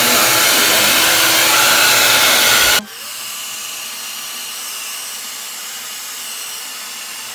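Hand-held hair dryer blowing on high heat, a loud steady rush of air. About three seconds in it drops abruptly to a much quieter steady hiss.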